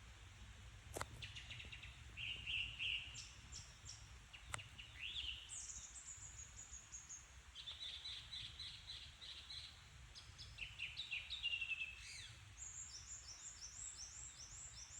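Several songbirds singing and calling, with series of short repeated chirps and quick descending trills, over a steady low background rumble. Two sharp clicks stand out about one second and four and a half seconds in.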